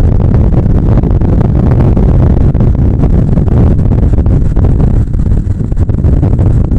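Steady, loud rush of wind and road noise on the microphone of a moving Bajaj Pulsar 150 motorcycle, with its single-cylinder engine running underneath.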